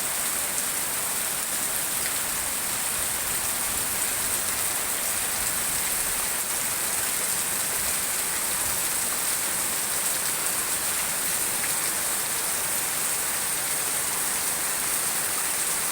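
Heavy tropical downpour: a steady, dense hiss of rain pouring onto the surfaces around, with no letup.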